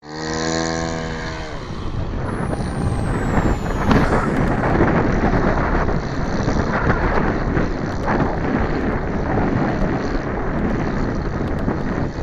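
Model airplane engine running as the RC plane flies, a steady buzzing tone at first that then sinks under heavy wind noise on the microphone.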